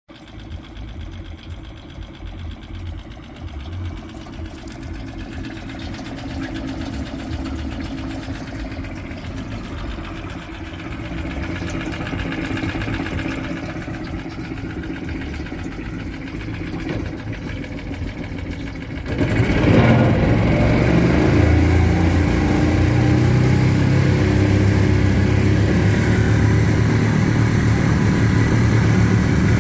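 Nissan (Tohatsu) 6 hp single-cylinder four-stroke outboard motor running steadily at idle. About two-thirds of the way through it suddenly gets much louder and stays loud.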